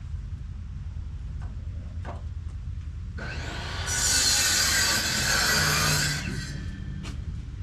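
Lumber being sawn: a harsh, continuous cutting noise starting about three seconds in and lasting about three seconds. A few faint knocks come before and after it.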